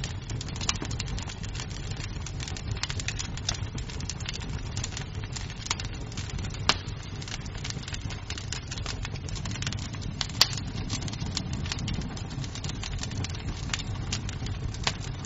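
Wood fire burning in a fireplace: a steady low rumble of flames with frequent irregular crackles and snaps of burning wood, and a couple of louder pops.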